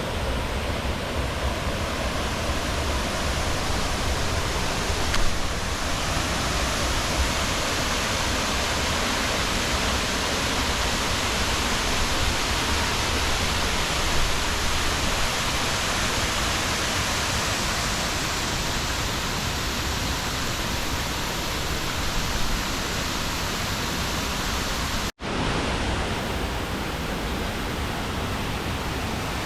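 Waterfall's steady rush of falling water, an even hiss across the whole range. The sound drops out abruptly for a moment about 25 seconds in.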